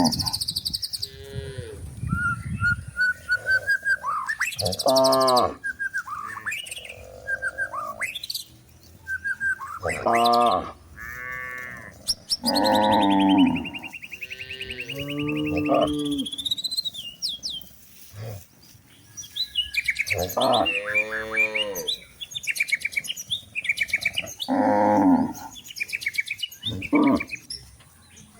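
Cattle mooing again and again, several drawn-out calls spread through the stretch, with small birds chirping between them.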